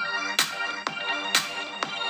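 Electronic music with a steady beat of about two strikes a second, played through a Samsung Galaxy S10+'s stereo speakers.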